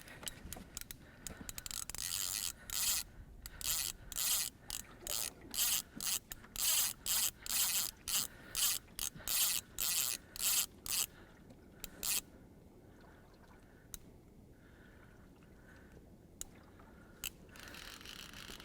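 Fishing reel working during the fight with a hooked fish: a run of short scraping bursts, about two a second, that stops after about nine seconds, followed by a few single clicks.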